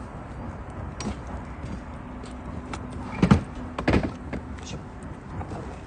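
Bonfire crackling with scattered small pops, and two louder knocks about half a second apart a little past the middle.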